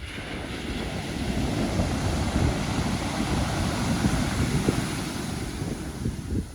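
Pacific Ocean wave breaking and washing up the shore: its hiss swells at the start and eases off near the end. Wind buffets the microphone underneath with a low, uneven rumble.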